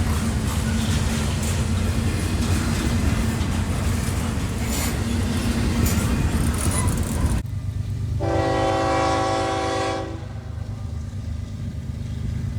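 Steady noisy rumble with a low hum that cuts off abruptly about seven seconds in; soon after, a diesel locomotive horn sounds one blast of about two seconds, a chord of several tones, over a low engine rumble.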